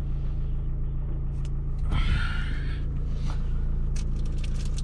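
Vehicle engine running steadily, a low hum heard from inside the cab, with a brief rustle about two seconds in.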